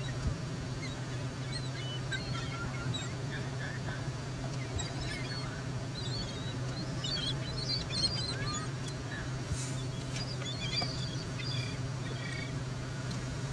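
Birds calling in many short, scattered chirps, busiest in the middle of the stretch, over a steady low hum.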